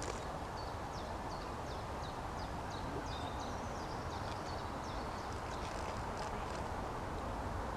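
Small birds chirping repeatedly in short, high notes over a steady low outdoor rumble.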